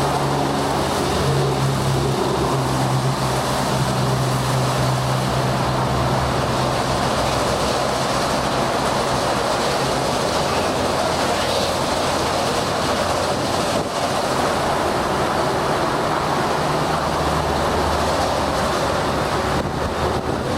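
Ryko Soft Gloss Maxx 5 in-bay automatic car wash running through its wash cycle: a steady hiss of spraying water and machinery, with a low motor hum that is strong for the first several seconds and then fades back.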